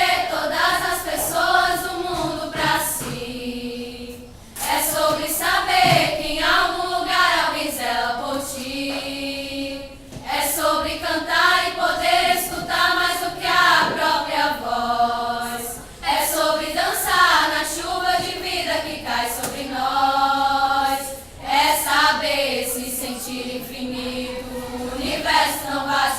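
Vocal group singing in harmony, in sung phrases broken by brief pauses about every five to six seconds.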